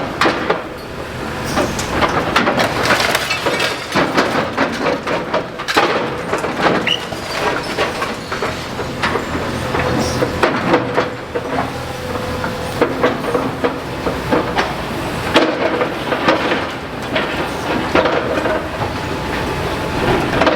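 Excavator demolishing a building: a dense, irregular clatter of crunching and falling rubble, with the machine's engine running steadily underneath.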